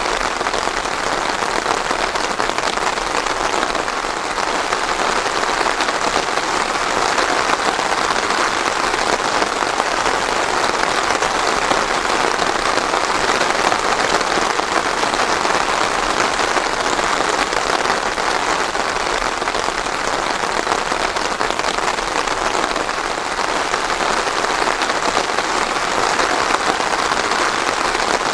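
Steady, even rain falling on a surface, a dense patter with no thunder.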